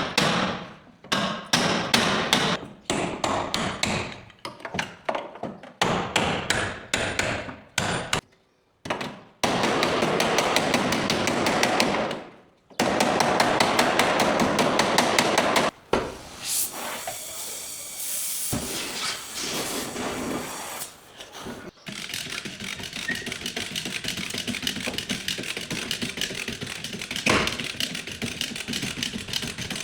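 Bodywork hammer striking car sheet metal in quick runs of blows, then stretches of steady power-tool noise.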